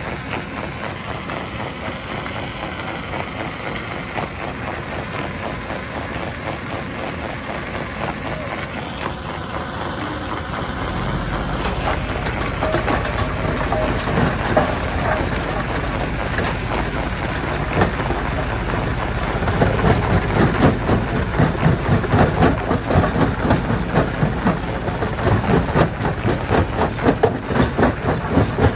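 A heavy engine runs steadily and grows louder and deeper about a third of the way in. In the last part a dense, rapid clatter of knocks sits on top of it.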